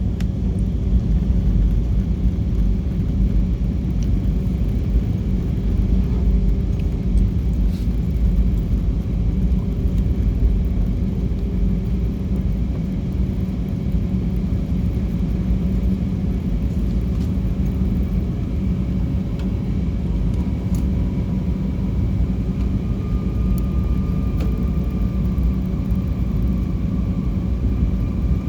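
Airliner jet engines and airflow making a steady low rumble with a steady hum, a higher whine coming up faintly near the end.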